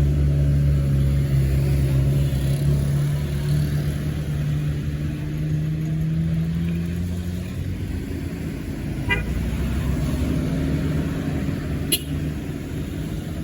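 A road vehicle's engine running close by, its low hum slowly rising in pitch and then dropping back about seven seconds in. Two short sharp clicks come later.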